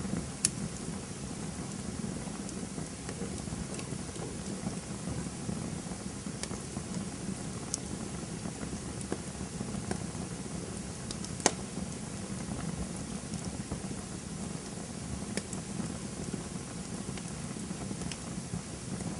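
Campfire burning with a steady hiss and crackle, broken by sharp pops of burning wood every few seconds, the loudest about eleven and a half seconds in.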